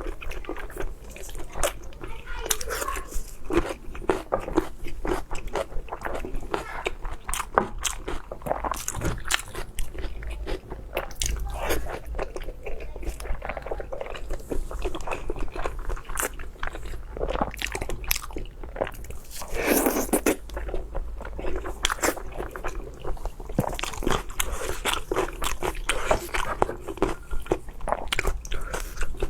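Close-miked mouth sounds of a person biting and chewing fatty pork: a dense, irregular run of wet smacks and crunchy clicks, with one louder burst about two-thirds of the way through.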